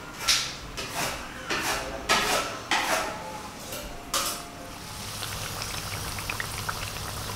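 Banana fritters frying in hot oil in a wok. For the first four seconds there is a run of short, sharp crackles about twice a second, then a steady sizzle.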